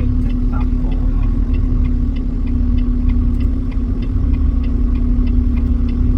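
Truck engine idling steadily, with a light, regular tick about twice a second over it.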